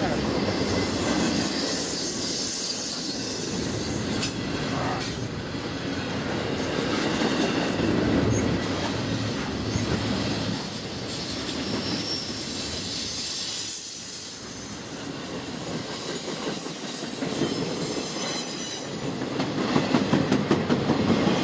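Double-stack intermodal freight cars of a Canadian Pacific train rolling past close by: a steady rumble of steel wheels on rail, with a faint high wheel squeal. Near the end comes a run of quick, evenly spaced wheel clicks over the rail joints.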